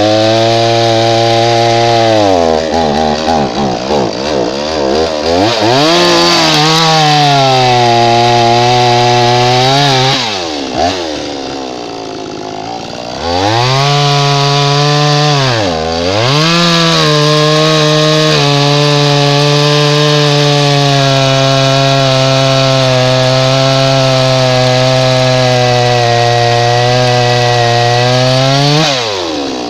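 Two-stroke Blue Max chainsaw running at full throttle while cutting wood. Its engine speed sags and bogs several times under load before picking back up. About ten seconds in it eases to a lower, quieter speed for a few seconds, then revs up again, and it drops once more near the end. The owner thinks the bog probably needs a little carburetor adjustment.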